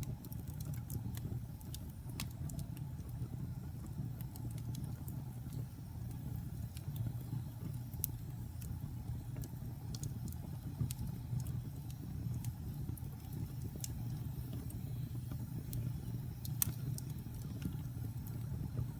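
Wood fire burning in a fireplace: a steady low rumble of the flames with irregular sharp crackles and pops, a couple of louder pops standing out.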